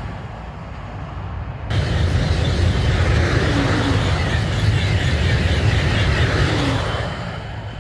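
TGV high-speed train passing at speed: a loud, steady rushing noise with a heavy low rumble that fades near the end. The sound jumps abruptly about two seconds in.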